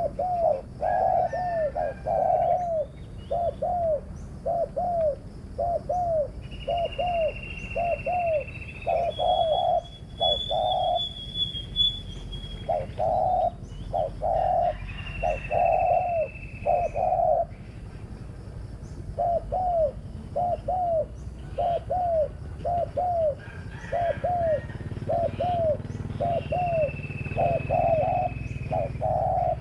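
Spotted doves cooing, a long run of short, repeated coo notes with brief pauses, while another bird gives three long, steady, high whistled notes.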